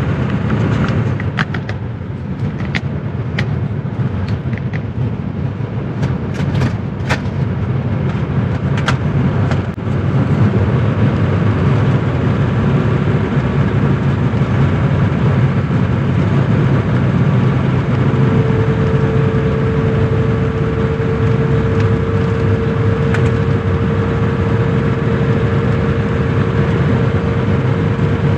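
Cabin sound of a 1985 Mercedes-Benz 300D's 3.0-litre five-cylinder turbodiesel cruising at about 45 mph: a steady low engine drone with road noise. A few light clicks come in the first ten seconds, and a steady hum-like tone joins about eighteen seconds in.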